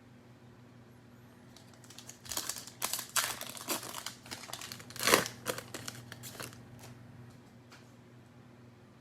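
Cellophane wrapper of a trading-card cello pack crinkling as it is torn open. A run of crackles starts about two seconds in, is loudest about five seconds in, and dies away by about seven seconds.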